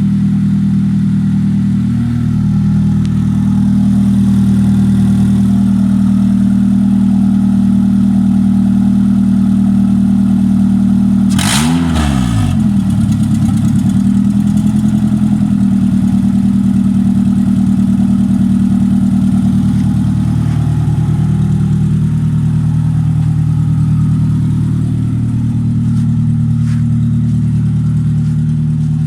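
Honda Fit GD1's 1.3-litre L13A four-cylinder engine idling steadily under a running test, with one quick rev blip about halfway through as the pitch sweeps up and drops back within a second.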